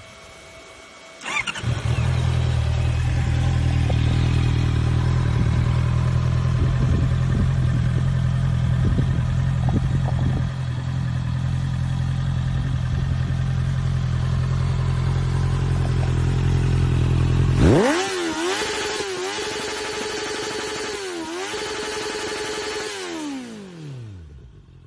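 Honda CBR650R inline-four with an SC Project aftermarket exhaust starting up: the starter cranks and the engine catches a little over a second in, then idles steadily. About eighteen seconds in, the revs climb and are held high with two brief dips, then fall away near the end.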